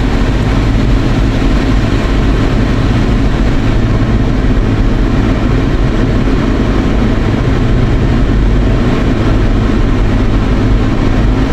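Steady road and engine noise inside a moving car's cabin, a constant low rumble with a hiss over it.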